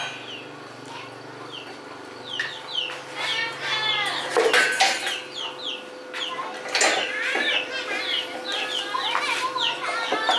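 Chickens clucking, with many short, high, falling chirps, over a faint steady hum.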